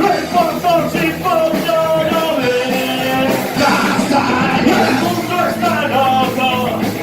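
Rock music: a full band playing a song, with a wavering lead melody line over a steady, dense accompaniment.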